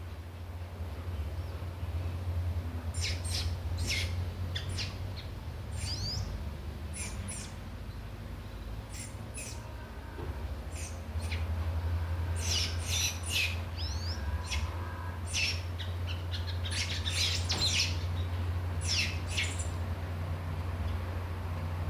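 Birds giving short, high chirps and calls, scattered through with a few quick gliding whistles, over a steady low hum.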